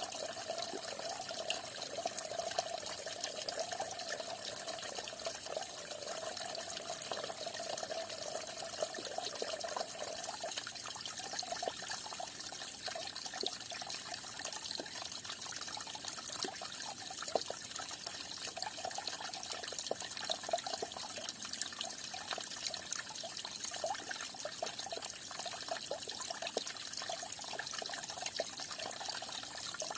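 Water falling and splashing steadily, a continuous rushing hiss dotted with small splashes.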